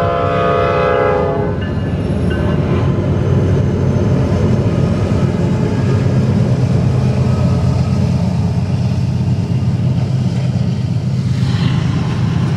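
A horn sounds a steady chord that stops about a second and a half in, followed by a loud, steady low rumble.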